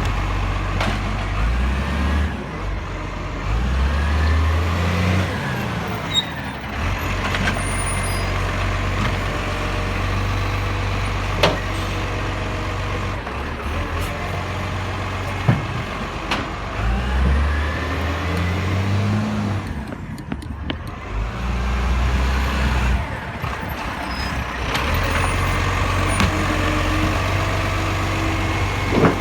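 Garbage truck's diesel engine running steadily and revving up twice, about fifteen seconds apart, with a couple of sharp knocks in between.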